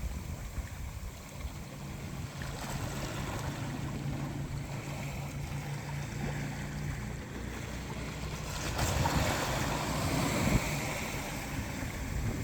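Atlantic Ocean surf washing on the shore, a steady rush of water with low wind rumble on the microphone; a wave surges in louder about nine seconds in and eases off near the end.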